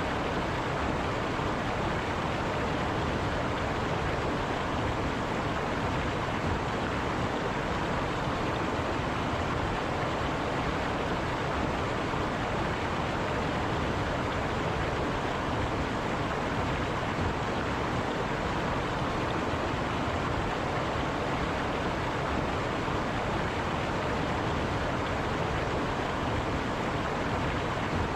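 A river running: steady rushing water that does not change.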